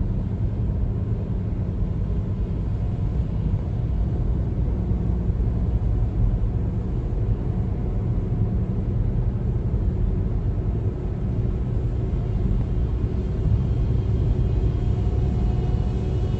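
Car driving on a highway: a steady low rumble of road and tyre noise with the engine underneath. A faint whine grows more distinct near the end.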